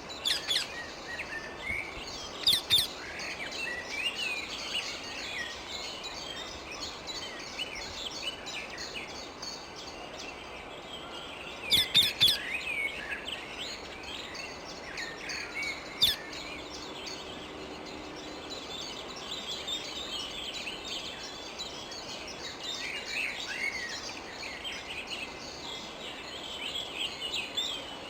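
Wild rose-ringed parakeets (Indian ringnecks) calling: a continuous chatter of chirps, with a few loud shrill screeches standing out near the start, in the middle and a little later.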